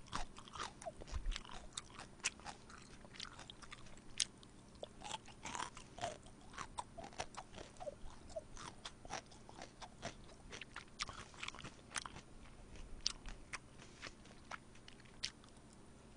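Close-miked eating: quiet chewing with many small, irregular crunchy crackles.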